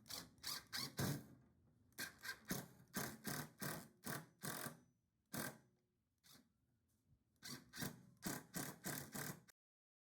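Quick repeated rubbing or scraping strokes, about three or four a second, in three runs with a single stroke between the second and third, cutting off abruptly near the end.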